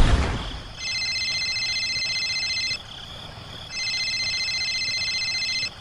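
A warbling electronic tone sounds twice. Each burst lasts about two seconds, with about a second's gap between them.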